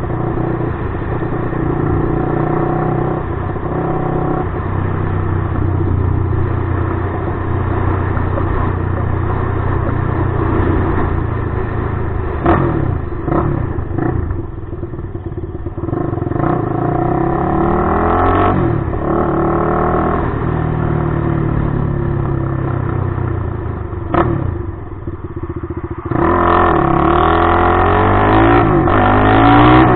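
Suzuki LTR450's single-cylinder four-stroke engine through a DMC aftermarket exhaust, its revs rising and falling over and over, with a few sharp cracks along the way. It gets louder in the last few seconds.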